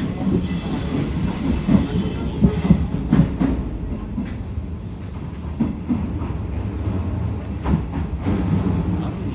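Running noise inside a Hanshin 5550 series electric train car: a steady low rumble of wheels on rail, with a few sharp knocks and a faint high-pitched ringing in the first three seconds.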